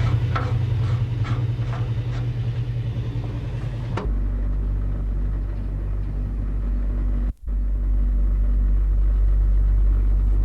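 Recycling truck's engine running with a steady low rumble. Its pitch and tone change abruptly about four seconds in, and the sound cuts out for a moment a little past seven seconds.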